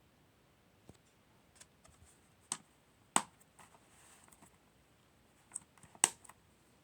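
Handling noise: sharp clicks and knocks at irregular intervals over a quiet room, the loudest about three seconds in and again about six seconds in.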